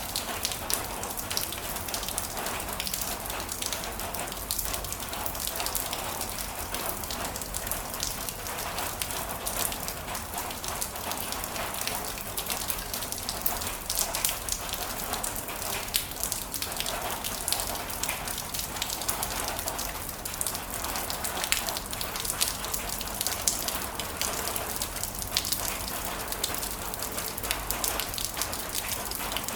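Heavy rain falling steadily: a dense hiss of many fine drop impacts.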